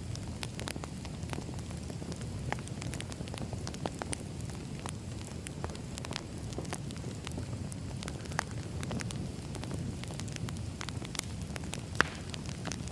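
Burning firewood crackling: a steady low rumble of flame with irregular sharp pops and snaps, one louder pop near the end.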